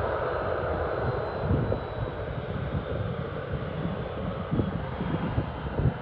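Boeing 737-800 jet engines running at low taxi thrust: a steady rumble with a faint high whine over it.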